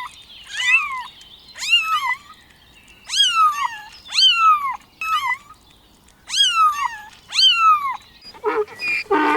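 Kitten meowing over and over in high-pitched mews that rise and then fall, about ten in all. Near the end comes a shorter, lower, buzzier call from another animal.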